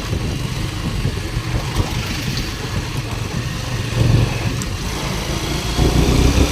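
Vehicle engine and road noise heard from a moving vehicle on a road: a steady low rumble that swells briefly about four seconds in and again near the end.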